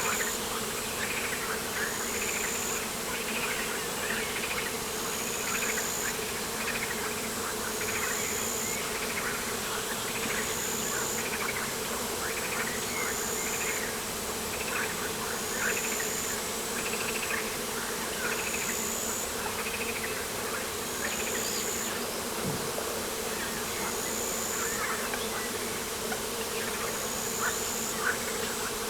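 Insects buzzing steadily, with a short high chirp repeating about every second and a half and scattered rapid chirping calls.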